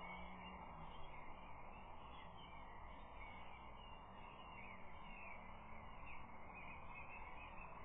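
Faint chirping and song of small wild birds over a steady hiss.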